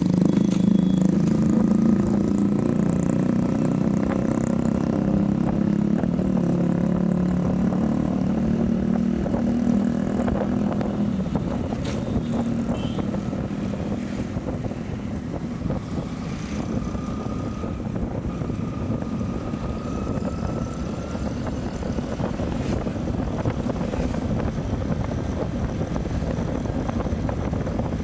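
Motorcycle engine running while riding, with wind buffeting the microphone. The engine's steady tone drops away about ten seconds in, leaving mostly wind and road rumble.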